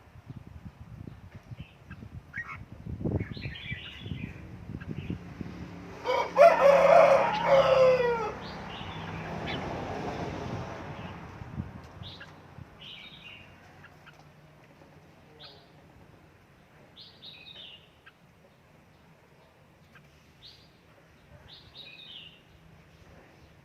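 Red-whiskered bulbul giving short, scattered chirps, with a rooster crowing loudly once about six seconds in.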